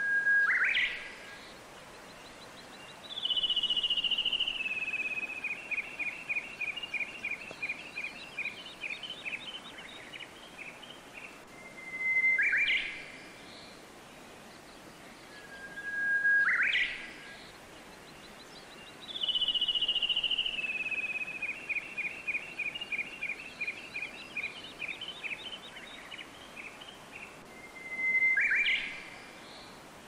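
Songbird singing: sharp rising whistled calls, and twice a long song that starts high, slides down and breaks into a run of quick repeated notes lasting several seconds, all over a faint steady hiss.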